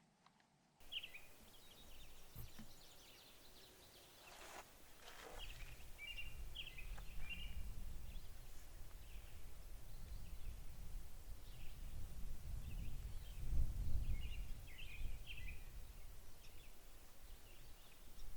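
Outdoor ambience that starts suddenly about a second in: scattered short, high bird chirps and twitters, over a low wind rumble on the microphone that builds and is strongest a little past the middle.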